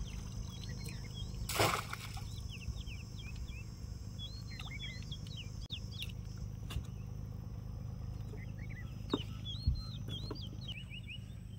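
Birds chirping: many short, quick calls scattered throughout, over a steady low rumble, with a brief rush of noise about one and a half seconds in.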